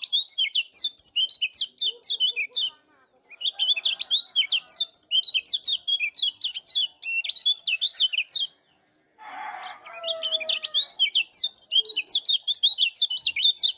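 Kecial kuning, a yellow white-eye, giving its 'ciak' chirping call: quick high notes, about four to five a second, in three long runs with short breaks about three and nine seconds in.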